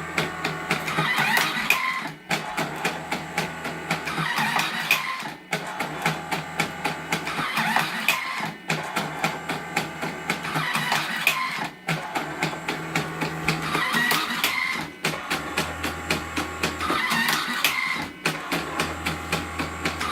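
Becker Sartori X100 electric automatic cigarette-making machine running through its cycles, one repeating about every three seconds. Each cycle brings fast clicking over a motor hum that starts and stops, the rhythm of one cigarette tube being filled after another.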